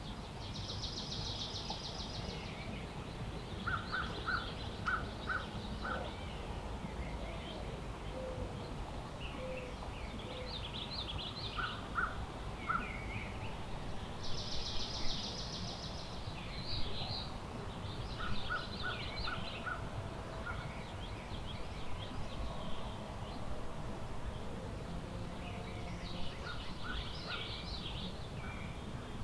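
Several woodland birds singing and calling over a steady low wind rumble. A buzzy call about a second and a half long comes near the start and again midway, and short runs of four or five quick, lower notes recur among scattered chirps.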